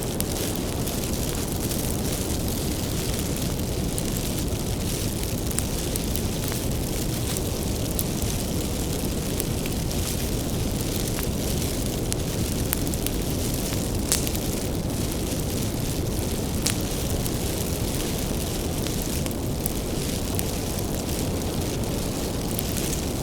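Wood bonfire burning with a steady low rumble of flames and scattered sharp crackles and pops from the firewood.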